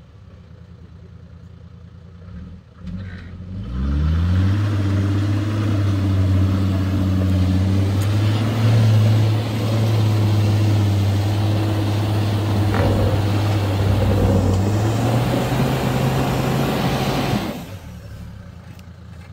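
A motor spins up quickly, runs at a steady high speed for about thirteen seconds, then cuts off suddenly.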